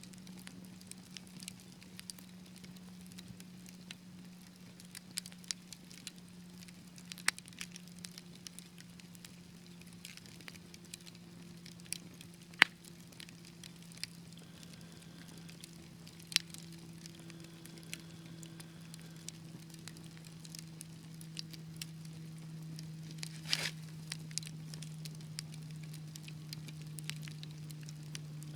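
Wood fire crackling, with irregular sharp pops and snaps and a brief hissing flare about two-thirds of the way in, over a steady low hum that slowly drops in pitch.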